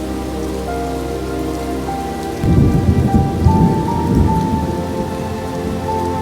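Heavy rain falling steadily, with a low rumble of thunder starting about two and a half seconds in and lasting about two seconds.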